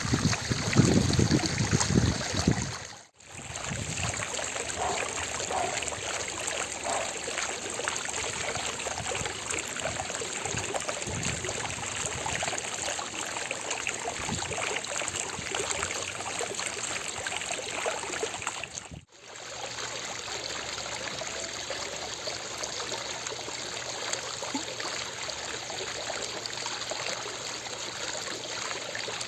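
Fountain water splashing and trickling in a steady rush, louder and deeper for the first few seconds. The sound drops out briefly twice, about three seconds in and again near the middle.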